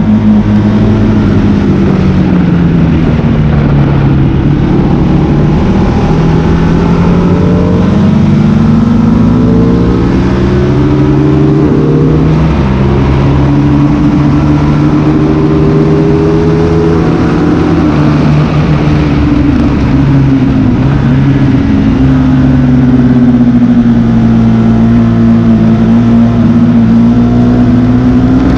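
Motorcycle engine running hard on a race circuit, its note climbing and falling repeatedly with sudden steps as the rider shifts gears, over a steady rush of wind noise.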